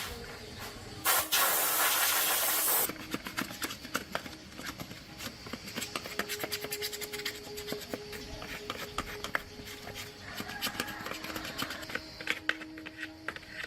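A loud burst of spraying hiss lasting about two seconds, starting about a second in, then a run of small clicks, taps and scrapes of parts being worked on by hand.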